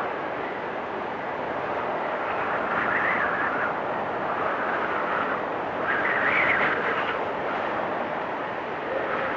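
Blizzard wind blowing steadily, rising in gusts with a higher whistling edge about three seconds in and again around six to seven seconds.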